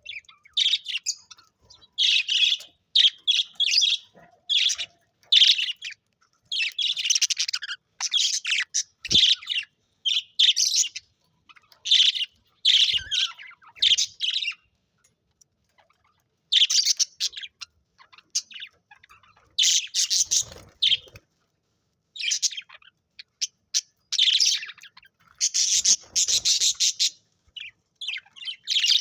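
Budgies chirping and chattering in short bursts, with a silent pause of a second or two about halfway through.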